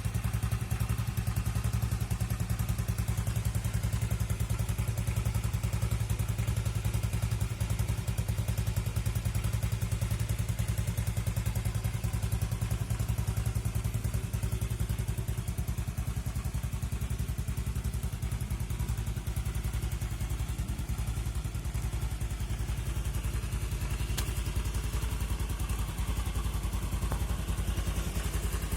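An engine idling steadily: a low hum with a fast, even pulse.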